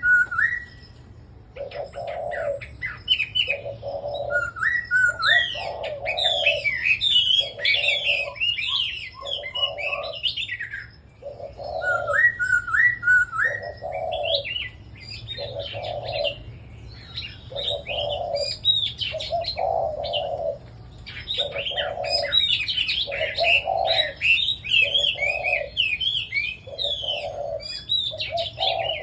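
Several caged red-whiskered bulbuls singing together, with rapid, overlapping warbled and chirped phrases. Underneath runs a low note repeated about every two seconds.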